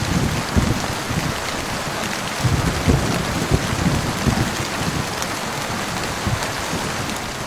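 Heavy rain pouring steadily onto a surface, a dense even hiss of drops, with low rumbling surges that swell near the start and again about two and a half seconds in.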